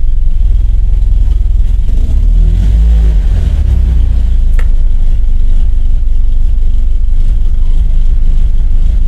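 Car engine idling steadily at about 1,000 rpm, heard from inside the cabin as a loud, low rumble, running on fresh oil and a new oil filter just after an engine flush. A single brief click about halfway through.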